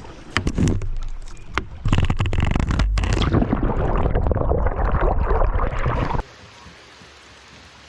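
Kayak scraping and knocking on the water, loud with a low rumble and several sharp knocks, cutting off suddenly about six seconds in to a steady hiss of rain.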